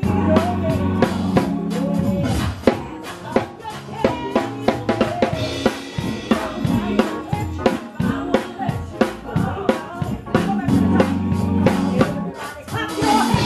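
Live band playing an instrumental passage: a drum kit keeps a steady beat of kick and snare hits over electric bass guitar notes.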